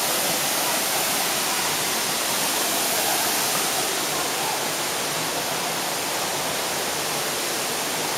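Waterfall pouring steadily, an even, continuous hiss of falling water.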